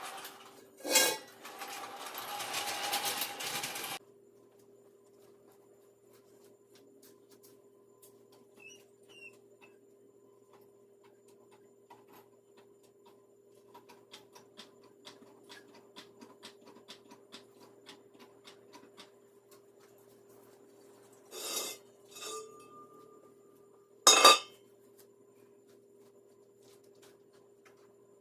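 Metal tools and parts clanking: a loud clank about a second in, then a rattling scrape for a few seconds, stretches of light irregular ticking in the middle, and more sharp clanks near the end. A steady faint hum runs underneath.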